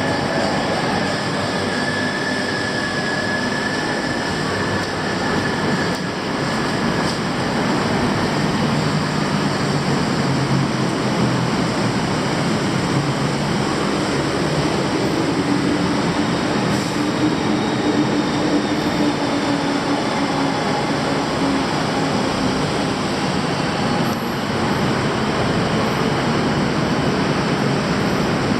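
Loud, steady rumble of passing vehicles, with faint whining tones that come and go.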